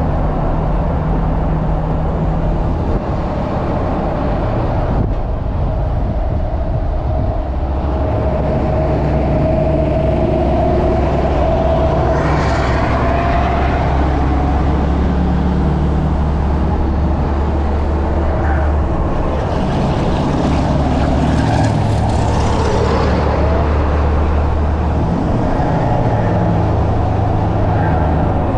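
A truck engine running steadily at a low pitch, with a tone that slowly rises about a third of the way through. Brief swells of hissing noise come near the middle and again about three quarters of the way through.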